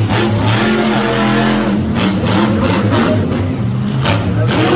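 Monster truck engine revving hard, its pitch rising and falling with the throttle during a freestyle run, with several short sharp sounds on top.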